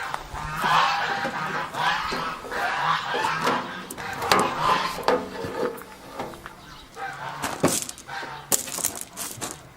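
Geese honking, call after call, with a few sharp knocks near the end.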